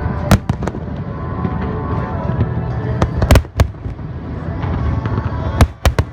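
Aerial fireworks bursting: sharp bangs in quick clusters about a third of a second in, around three seconds in, and near the end, over a continuous low rumble, with music playing underneath.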